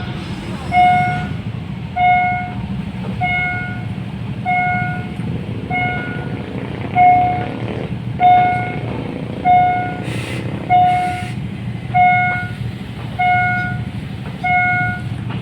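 Level-crossing warning bell ringing evenly, about once every second and a quarter, over the steady low rumble of a diesel train. Two short hisses sound about two-thirds of the way through.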